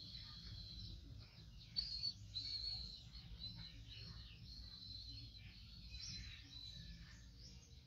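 Small birds chirping steadily in quick high notes, a little louder about two seconds in, over a faint low rumble.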